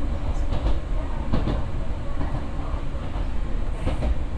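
Nose Electric Railway electric train running, heard from inside its rear cab: a steady low rumble with a few sharp clacks of wheels over rail joints, about half a second in, at a second and a half, and near the end.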